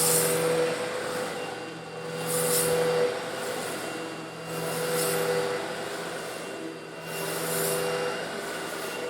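Eureka vacuum cleaner running steadily while sucking up coarse stone granules, with a gritty hiss of grit going up the hose that swells about every two and a half seconds.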